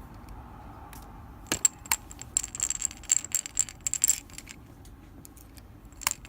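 Small metallic clicks and scraping as a T8 Torx screwdriver drives little mounting screws into the side of a 3.5-inch desktop hard drive, coming in irregular clusters about a second and a half in and again near the end.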